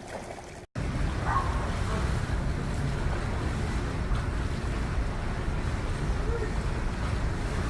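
Wind buffeting the microphone: a steady low rumbling noise that starts suddenly after a brief dropout, about a second in.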